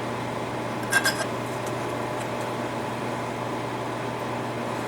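Steady hum of a running shop fan or blower, with a single light metallic clink about a second in.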